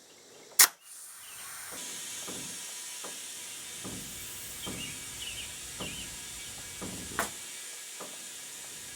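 A sharp click, then compressed air hissing steadily through a tire-chuck attachment into a flat tire from a small electric air compressor, with faint soft knocks about once a second.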